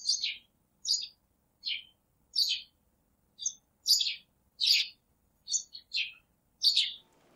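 A bird chirping over and over: short, high calls that each slide down in pitch, about eleven of them spaced a half to one second apart, with silence in between.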